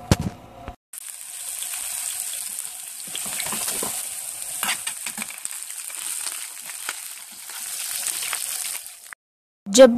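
Garlic and whole round red chillies sizzling and crackling in hot oil in a pan as they brown. The sizzle starts about a second in and cuts off abruptly shortly before the end.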